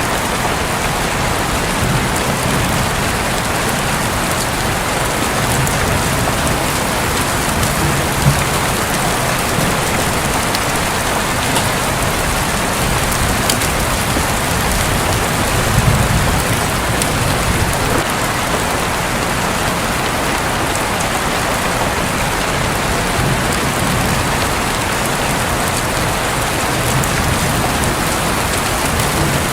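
Heavy rain falling steadily on a roof, with a low rumble of thunder about halfway through.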